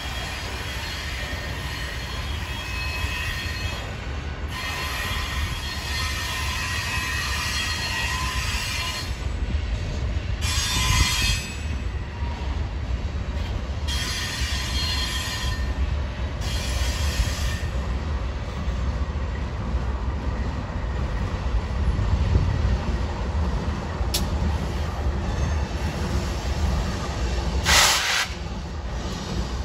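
A train rolling past with a steady low rumble of cars on the rails, and high-pitched wheel squeal in several stretches during the first half. A short loud burst near the end.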